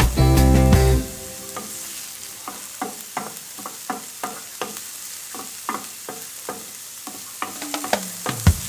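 Food frying in a pan with a faint sizzle, stirred with a utensil that clicks against the pan about once or twice a second. Background music plays for about the first second.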